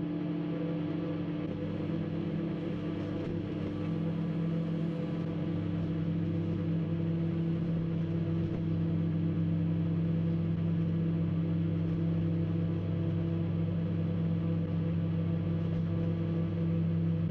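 Microwave oven running, a steady electrical hum that holds unchanged.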